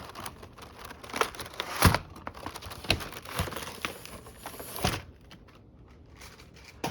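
Packaging crinkling and rustling as it is handled, with a few sharper knocks among the crackle. It dies down near the end.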